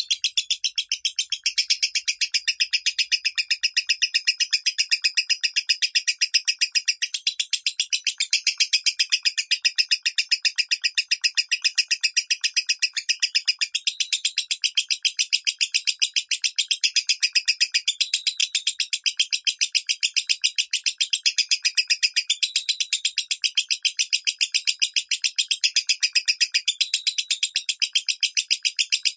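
Lovebird singing a long, unbroken chattering song (ngekek) in the 'minor' voice, a fast, even string of shrill chirps at about five a second.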